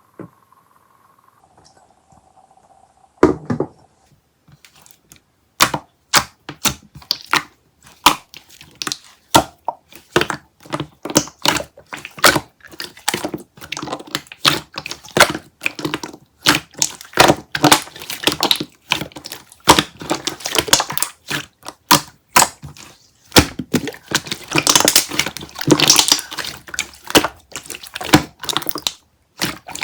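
Crunching and chewing of strawberry and banana: a rapid, irregular string of sharp crisp cracks that starts about three seconds in and grows denser and louder near the end.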